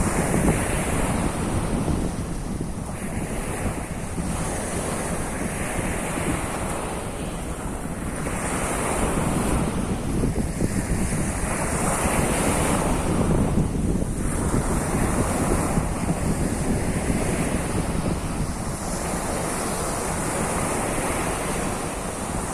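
Sea of Azov surf: waves breaking and washing on the shore in a continuous rush that swells and eases every few seconds, with wind buffeting the microphone.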